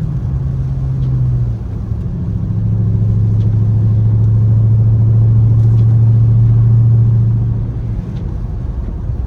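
Dodge Charger Scat Pack's 392 HEMI V8 running under way: the revs drop over the first second and a half, then the engine holds a steady, louder drone while cruising before easing off near the end.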